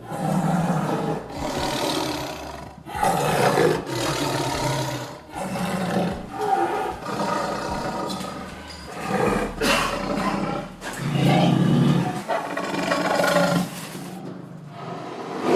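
A big cat roaring and growling, a rough series of separate roars about one a second.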